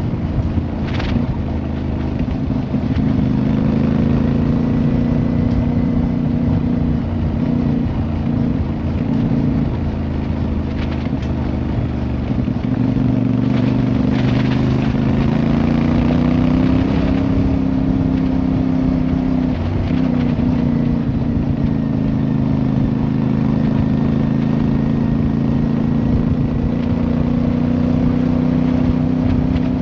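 Motorcycle engine running steadily while under way. Its note rises a little about halfway through and dips briefly a few seconds later.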